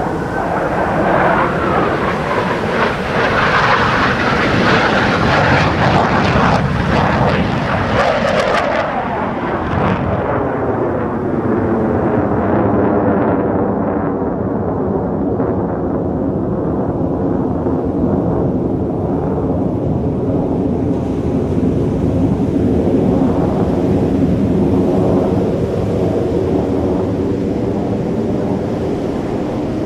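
Fighter jet engine noise, a loud continuous roar. A bright hissing top fades out about nine seconds in, leaving a lower, steadier rumble.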